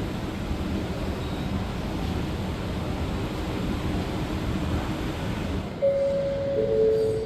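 A steady rushing background noise, then near the end a public address chime: two held notes, the second lower, the signal that an announcement follows.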